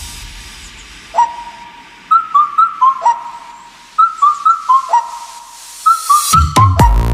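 A whistled tune of short, clipped notes on two or three pitches, each note sliding up into place, played in quick groups as part of the background music. About six seconds in, a heavy electronic dance beat with deep bass drops in.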